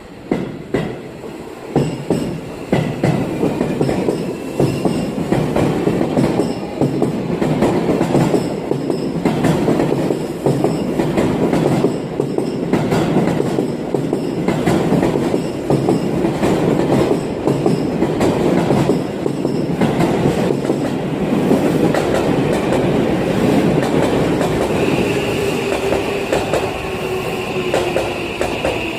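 Seibu Railway electric commuter train running past at a station platform, its wheels clattering over rail joints. Near the end a steady high squeal sets in and a lower motor whine falls in pitch as the train slows.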